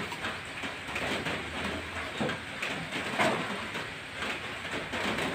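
Eating sounds, chewing and handling fruit, with a few short sharp noises over a steady background rumble.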